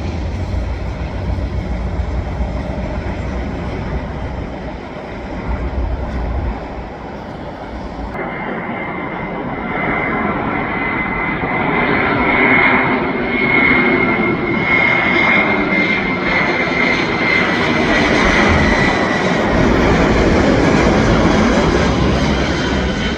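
Jet airliner on final approach passing close overhead: a rushing engine noise builds and stays loud, with a high steady whine over it, after a low rumble in the first few seconds.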